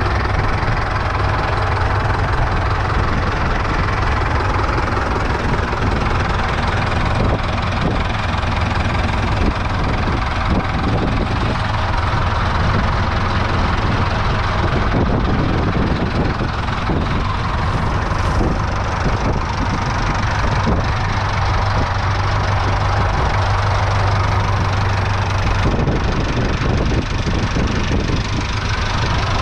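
Doe 130 tractor's twin Ford 5000 3.8-litre four-cylinder diesel engines running steadily with a low, even drone that eases slightly near the end.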